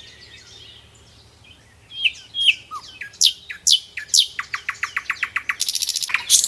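Songbirds singing: after a quiet couple of seconds of faint chirps, a series of loud down-slurred whistled notes, then a fast run of short repeated notes, and a dense, loud trill near the end.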